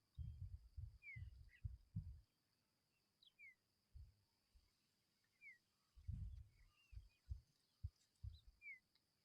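Faint bird calls: short, clear notes that fall in pitch, repeated every second or two, over low rumbling bumps and a thin, steady high hiss.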